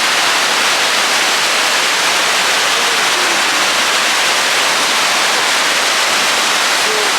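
Victoria Falls' water thundering into its gorge, heard as a loud, steady, even rush that is more hiss than rumble.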